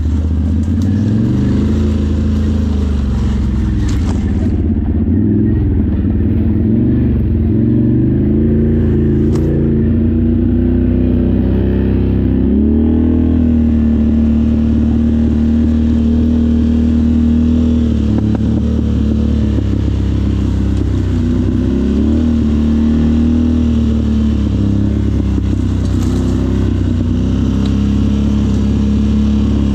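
Off-road ATV engine running continuously under changing throttle. Its pitch rises and falls over the first several seconds, holds steady for a long stretch, and rises again a couple more times.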